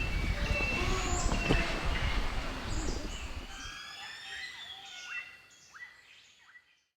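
Many birds chirping and whistling with short, quick calls over a low rumble. The rumble dies away about halfway through, and the whole sound fades out near the end.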